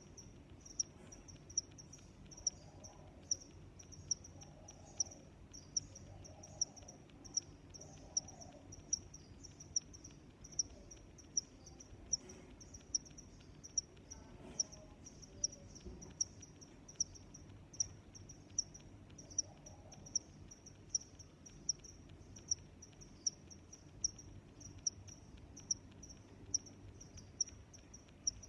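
Crickets chirping: a high, thin chirp repeated at a steady, even rhythm, a little more than once a second.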